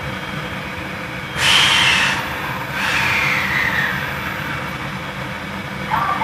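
Steady hum of a JR 313-series electric train's air conditioning while it stands at a station. About a second and a half in come two loud hissing bursts: a short one, then a longer one that falls in pitch.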